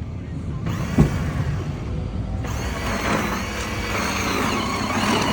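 Vehicle engine running steadily, with a sharp knock about a second in and a louder rushing noise joining about halfway through.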